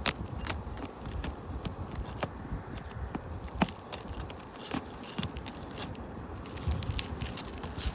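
Asphalt roof shingles being worked loose by hand and tool: irregular crackling and scraping with scattered sharp clicks as the brittle shingle is pried up and tears.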